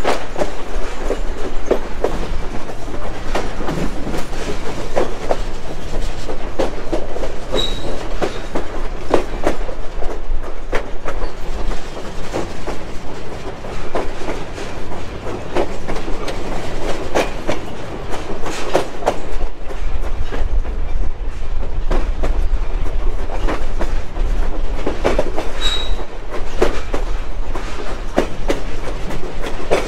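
Passenger train coach rolling along the track: a steady rumble with the irregular clickety-clack of the wheels over rail joints, and two short high squeaks from the wheels, at about 8 s and 26 s.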